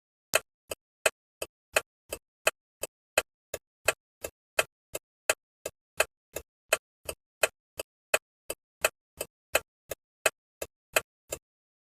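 Turn-signal indicator ticking: evenly spaced clicks about three a second, alternating louder and softer, stopping about a second before the end.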